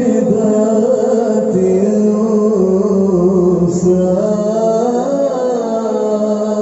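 A male qari reciting the Qur'an in the melodic tilawah style, holding one long, ornamented vocal line without a break, its pitch turning slowly up and down.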